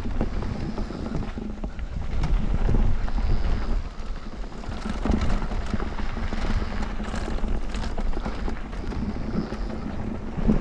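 Mountain bike riding fast down a dirt bike-park trail: wind rushing over the microphone and tyres rumbling on the dirt, with frequent rattles and knocks from the bike over bumps.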